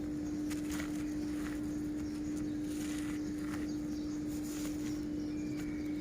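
A damp crumbly material being crumbled and broken apart by hand, giving soft irregular crumbles around the first, third and fourth seconds, over a steady low hum.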